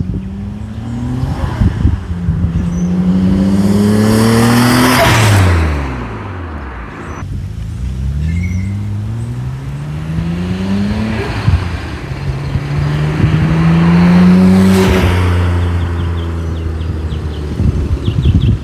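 A car with a Midori Seibi titanium exhaust accelerating past twice. Each time the exhaust note rises in pitch and grows louder as it approaches, then drops in pitch as it goes by, once about five seconds in and again about fifteen seconds in.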